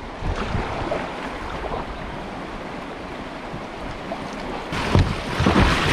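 River rapids rushing around a kayak, a steady noisy flow of water that swells into a louder splashing surge near the end.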